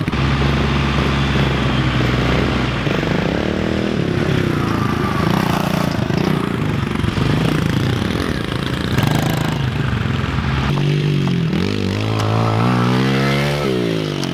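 Pit bike engine revving up and down repeatedly as the throttle is opened and closed while riding, with the widest pitch swings in the last few seconds.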